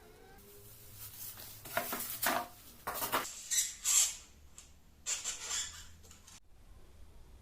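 Several short, squeaky scraping strokes, typical of thermocol (expanded polystyrene foam) being rubbed or cut during the plane build.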